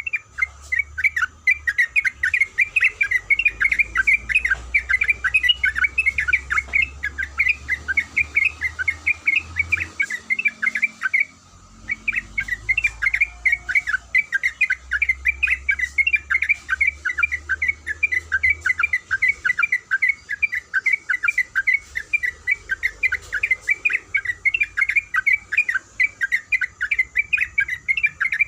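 Sooty-headed bulbul (trucuk) singing a long, rapid run of short chattering notes, several a second, with a brief break about eleven seconds in.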